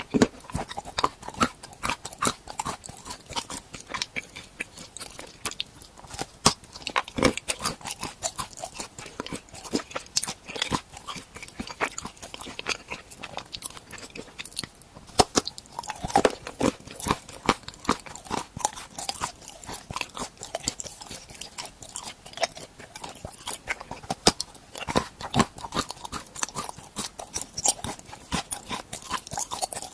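A person biting and chewing edible tool-shaped snacks up close, with a dense, irregular run of sharp cracks and crackles.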